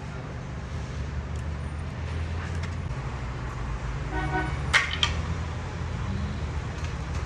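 A short horn-like toot, about half a second long and about four seconds in, over a steady low rumble, with two sharp clicks just after it.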